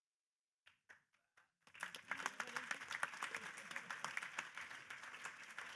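Audience applauding, a dense patter of many hands clapping that starts up about a second and a half in, with a few voices mixed in.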